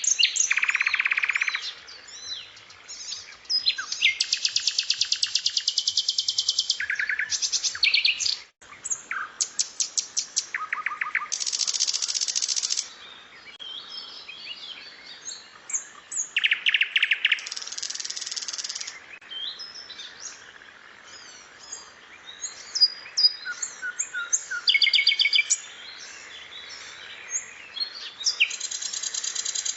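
Recorded songbird calls from a masteran tutoring track mixing sikatan londo, cucak cungkok and tengkek songs. High, very fast rattling trills lasting a second or two each alternate with short scattered chirps and whistles.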